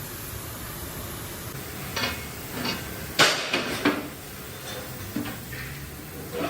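A series of irregular metal knocks and clanks, about half a dozen strikes starting about two seconds in, the loudest a little after three seconds, some ringing briefly, over a steady workshop hiss.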